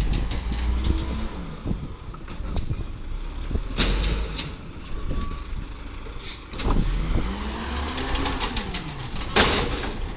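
Diesel garbage truck engine running, revving up and back down twice, with two short bursts of hissing air: one about four seconds in and a louder one near the end.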